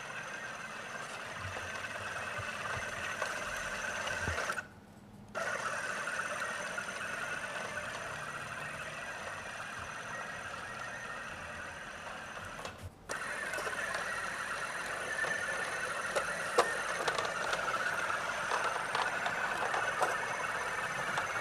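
Roomba robot vacuum running, a steady whirr of its motor and brushes that cuts out briefly twice.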